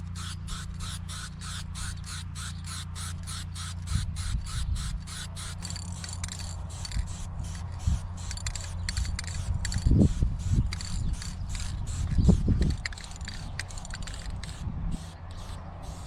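An aerosol spray-paint can being shaken, its mixing ball rattling in quick, regular clicks, about three to four a second, then looser, with spraying between. A steady low rumble runs underneath, and a couple of louder thumps come about two-thirds of the way in.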